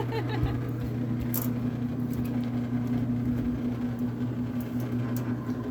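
Electric boat lift motor running steadily with a constant low hum as it lowers a small boat, with a couple of short clicks.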